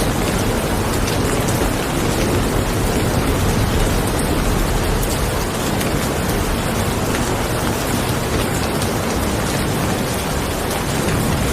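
Steady rain: a dense, even hiss of falling rain with scattered drop ticks, unchanging in level.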